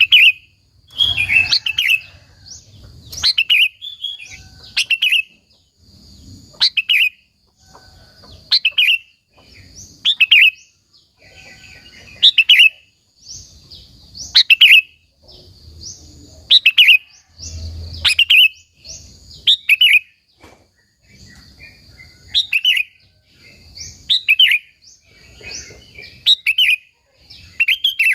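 Sooty-headed bulbul (kutilang) singing: loud, short chirping phrases repeated every second or two. This is the lively full song that keepers play to rouse other bulbuls to answer.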